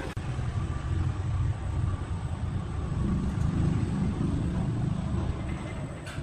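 An engine running with a low, uneven rumble that swells louder about three seconds in.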